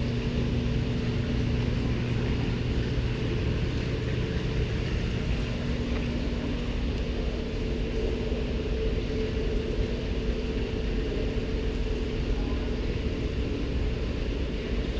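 A steady low mechanical hum with rumble, holding a constant tone throughout. A lower part of the hum drops away about five seconds in.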